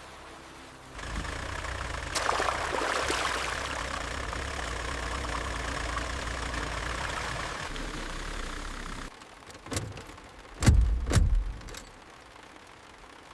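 An engine running steadily at idle, stopping abruptly about nine seconds in, followed by three or four sharp heavy thumps.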